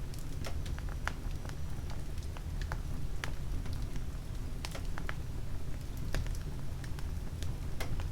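Oak logs and twigs burning in an open fireplace: irregular sharp crackles and pops, several a second, over a steady low rumble of the fire.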